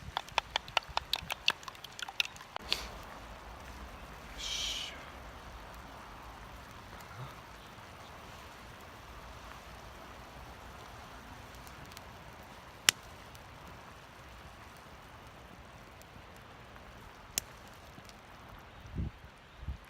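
Small wood fire in a Firebox stove burning under a cooking pot: a steady low hiss with a few sharp pops. It opens with a quick run of light ticks for the first couple of seconds, then a short hiss, and two dull thumps near the end.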